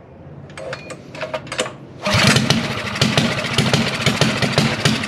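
Minibike's small gas engine, fitted with a new aftermarket exhaust pipe, being started: a few short rattles, then it catches about two seconds in and runs loud with a rapid, even firing beat, still on choke.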